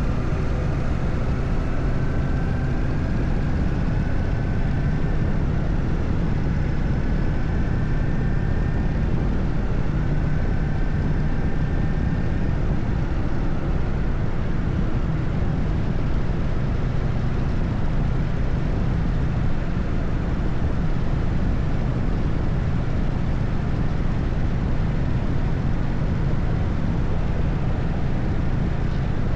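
Harley-Davidson Evolution V-twin engine running steadily at cruising speed on the expressway, under a steady rush of wind and road noise. A faint, slowly rising whine sits above it for the first dozen seconds.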